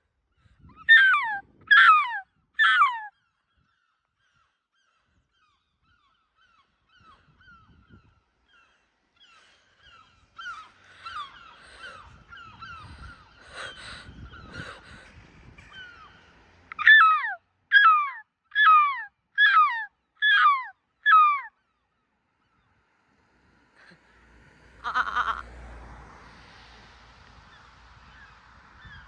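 Gull calling: three loud falling squeals, then a stretch of softer, shorter calls, then a run of six more falling squeals about a second apart. A brief rustling thump near the end.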